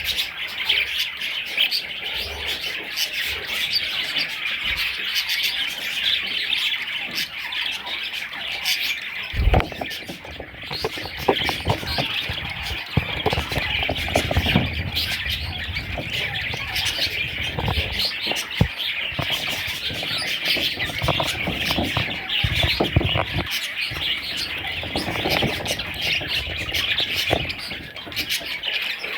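Pet budgerigars chattering, a continuous mix of chirps and warbles, with scattered clicks and a few low knocks and rustles from about ten seconds in.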